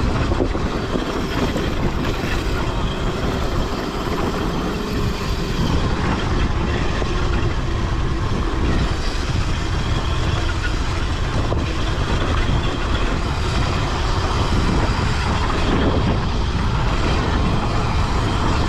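Dirt bike engine running while riding, mixed with heavy wind rush on the microphone.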